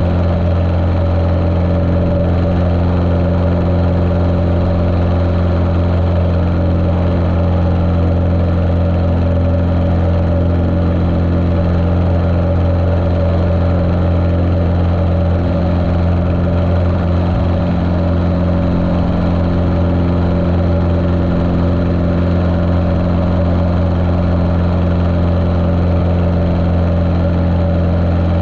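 Continental O-200 four-cylinder aircraft engine of a Cessna 150L running steadily, with an even, unchanging drone. It sounds muffled, heard through a camera's waterproof case.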